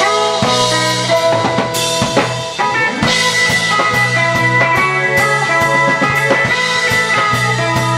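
A rock band playing live, an instrumental passage with electric guitar over a drum kit keeping a steady beat with cymbals.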